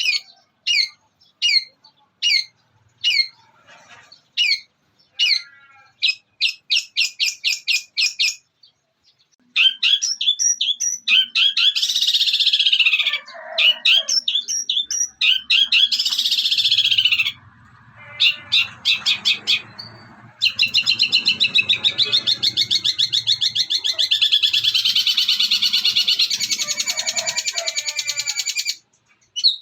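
Long-tailed shrike (cendet) singing a song filled with mimicked calls, including sparrow chirps. It starts with short sharp notes about once a second, goes into fast trills and harsh chattering, and ends in a long buzzy run that stops suddenly about a second before the end.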